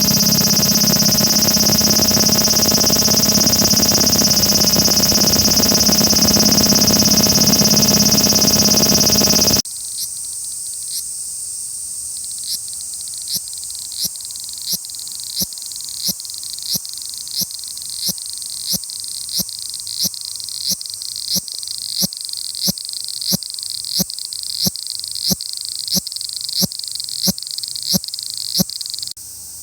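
Cicada calling: a loud, dense buzzing drone for about ten seconds, then an abrupt switch to a steady high hiss with sharp, evenly spaced ticks about one and a half per second that grow louder, cutting off shortly before the end.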